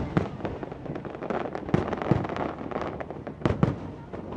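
Aerial fireworks shells bursting overhead in a rapid, irregular series of sharp bangs, the loudest just after the start and about three and a half seconds in.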